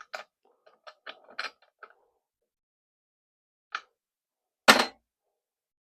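Small metallic clicks and rattles of tools and chainsaw parts being handled on a workbench, then one sharp knock about four and a half seconds in as something is set down hard.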